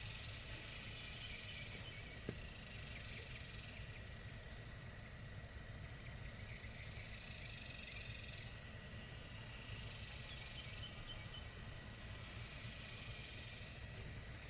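Outdoor ambience: a high hissing buzz that swells in and out in bursts of a second or two, about five times, over a steady low rumble.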